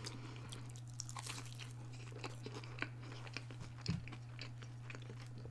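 Close-miked chewing of a crispy breaded chicken strip: scattered small crunches and mouth clicks, with one louder bite about four seconds in.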